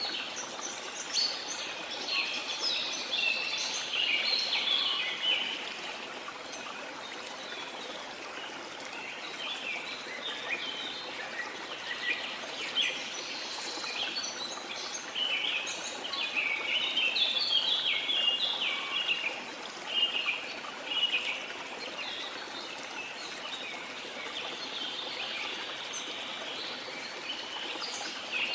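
Birds chirping in quick, dense clusters over a steady rush of falling water. The chirping thins out at times and comes back thick, busiest in the first few seconds and again after the middle.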